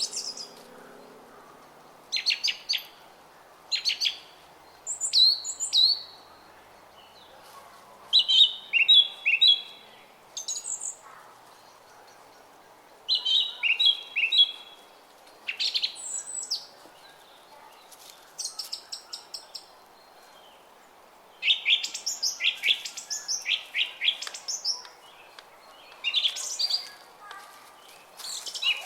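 Small songbirds singing in short, rapid chirping phrases, one every second or two with a couple of brief pauses, over the faint steady murmur of a brook.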